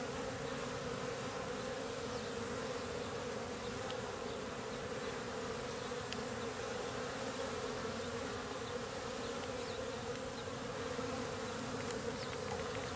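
Many honeybees buzzing steadily as they fly around their hive.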